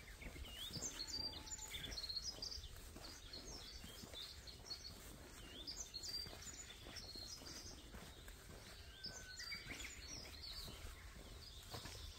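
Small songbirds chirping and calling in three spells: about a second in, around the middle, and again around nine to ten seconds in. A faint low rumble runs underneath.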